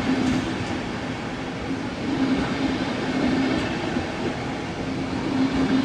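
Passenger train running along the track, its carriages rolling over the rails with a steady noise and a low hum that comes and goes.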